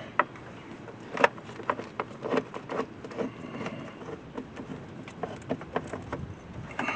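Irregular clicks and light knocks of parts and tools being handled while the stock air intake is worked loose, with one sharper knock about a second in.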